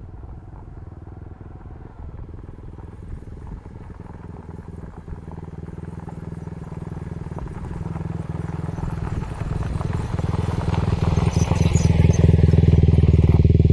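Quad bike engine running at a steady pitch, getting steadily louder.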